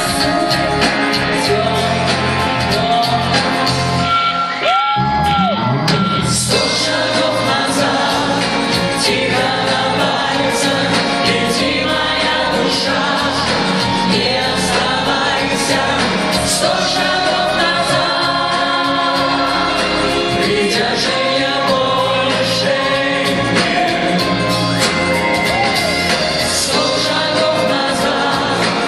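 Live performance of a pop ballad: a band playing with sung vocals, backing voices blending in.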